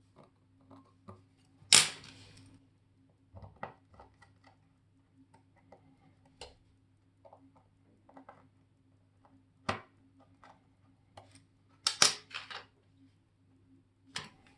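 Watchmaker's small metal hand tools clicking and tapping against watch parts, irregular and sparse, with the sharpest clicks about two seconds in and near twelve seconds, over a faint steady hum.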